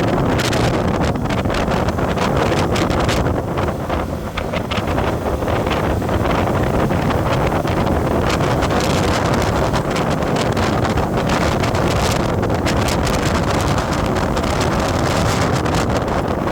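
Wind buffeting the microphone of a moving vehicle, a steady loud rush with crackles, over road and engine noise.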